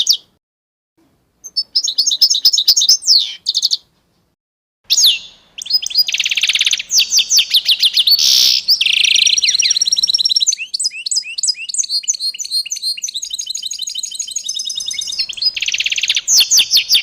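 Songbirds chirping and trilling in rapid repeated notes, several calls overlapping. Two short silences break it near the start, and from about five seconds in the calls run on densely.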